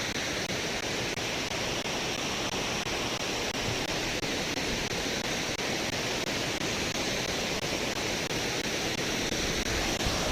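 Waterfall and mountain stream rushing steadily, an even wash of water noise with no breaks.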